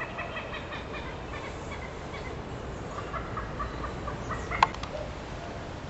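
A bird calling in a rapid series of short, clucking notes, in two bouts, over outdoor background noise, with one sharp click a little after the middle.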